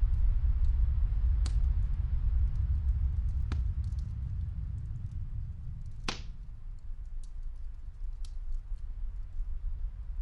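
Snowstorm wind, a steady low rumble, with a wood fire crackling over it: scattered small clicks and a few sharper pops, the loudest about six seconds in.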